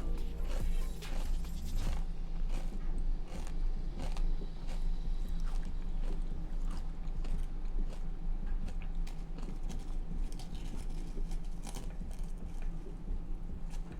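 Close-up eating sounds: chewing and biting, with irregular crunchy clicks through the whole stretch over a faint steady hum.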